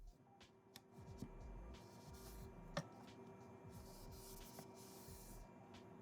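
Faint rubbing of a cloth on a surface: two longer hissing strokes and a few light clicks, over quiet background music.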